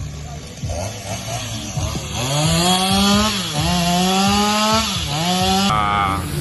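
Two-stroke chainsaw running rough and low, then revved up to full speed about two seconds in to cut through the trunk and branches of a fallen tree. Its pitch sags twice as the chain bites into the wood.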